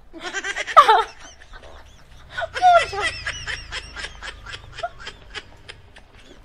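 Laughter: a short laugh about half a second in, then a longer run of repeated laughs starting about two and a half seconds in that gradually trails off.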